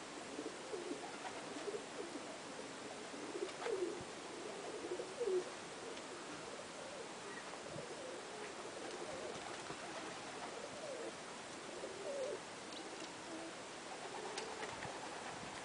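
Domestic pigeons cooing, low calls repeated again and again, overlapping one another, over a steady hiss.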